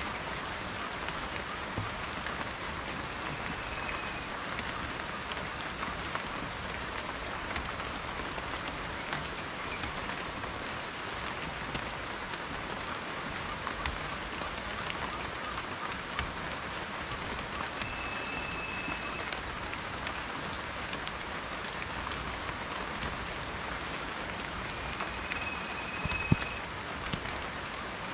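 Steady rain falling on a surface, a continuous hiss with many individual drops ticking through it and one sharper, louder drop near the end. A faint short high tone comes three times.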